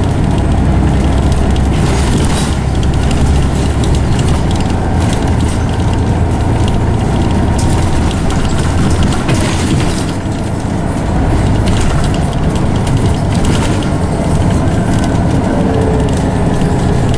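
Scania OmniCity single-decker bus heard from inside, under way. The engine rumbles low along with road noise, the interior rattles and clicks, and the ZF automatic gearbox whines, which is loud on this bus. The rumble eases about four seconds in and dips briefly later on, as the bus changes speed.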